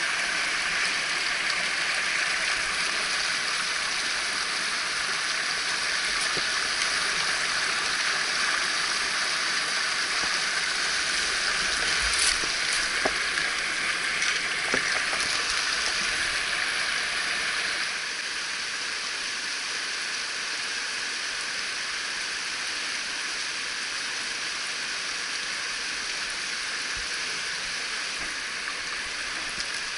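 Mountain headwater stream rushing over rocks, a steady rush of water that drops a little in level about eighteen seconds in, with a few faint ticks partway through.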